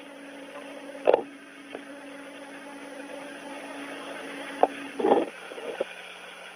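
Steady hum of the space station cabin's ventilation, with a couple of knocks about a second in and again around five seconds in as the crew moves through the hatch.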